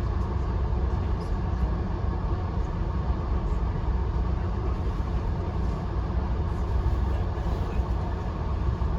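Steady low rumble of a passenger train car in motion, heard from inside the car.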